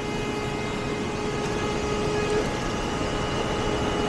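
Indoor blower of an air handler running, a steady rush of moving air with a faint hum, ramping up a little as its multi-speed motor is switched from speed tap 2 to tap 3 for more airflow.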